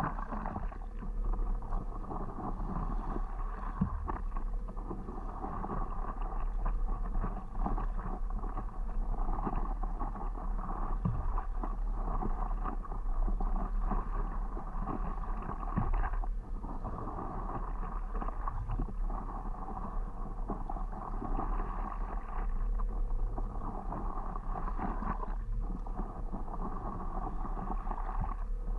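Water splashing and rushing against a stand-up paddleboard as it is paddled, in stretches of several seconds with short lulls. A steady low wind rumble sits on the microphone underneath.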